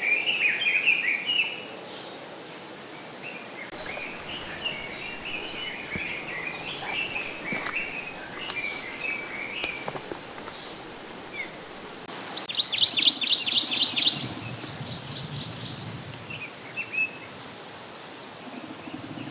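Forest songbirds singing: chirpy, warbling phrases come and go, then about two-thirds of the way through a loud, fast trill of repeated notes that slows and fades.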